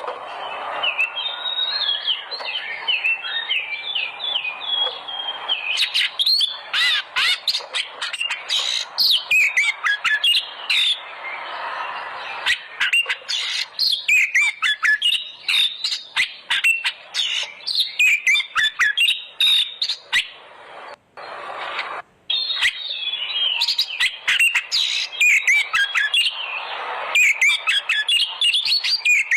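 Oriental magpie-robin singing a fast, varied song of sweet whistles, quick chirps and harsh clicky notes, almost without a break except two brief drops about two-thirds of the way through.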